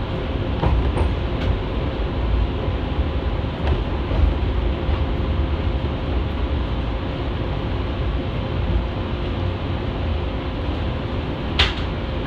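JNR 115 series electric train running along the line, heard from inside the car: a steady low rumble from the wheels and running gear with a faint constant hum. A few light clicks come in the first few seconds, and one sharp, louder click comes near the end.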